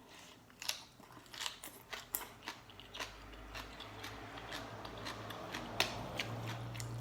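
Eating sounds from chewing papaya salad and chicken feet: irregular small clicks and crunches, with a low steady hum coming in about halfway.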